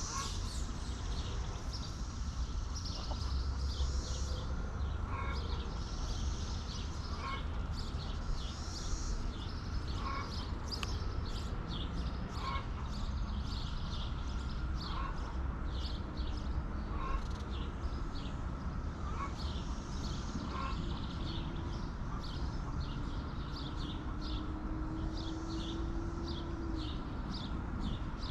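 Birds chirping: many quick high chirps, with a short call repeating about every two seconds, over a low steady rumble.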